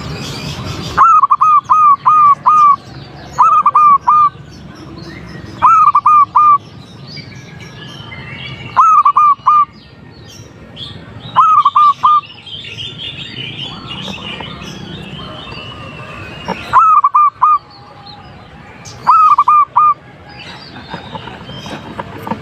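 Zebra dove cooing as a lure call: seven short phrases of three to five quick notes each, a few seconds apart, with a longer pause midway. Other small birds chirp in the background.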